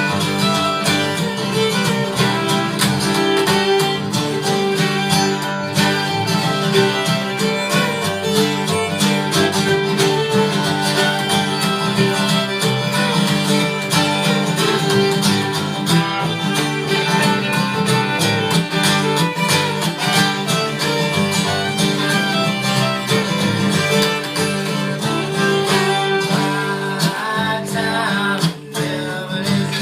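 Acoustic folk string band playing live, with plucked guitar and fiddle over a steady bass line.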